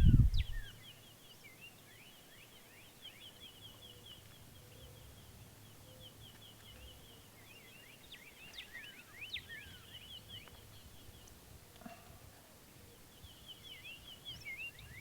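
Songbirds singing in the morning: a fast, high trill repeated over and over, with several downslurred whistled notes from other birds, thickest about two thirds of the way through. The birds are faint.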